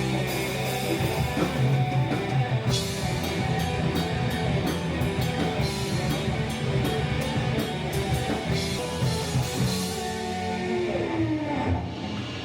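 Heavy rock band playing loud through a PA on stage during a soundcheck: drum kit with cymbals, distorted guitars and bass. The band stops near the end and the sound dies away.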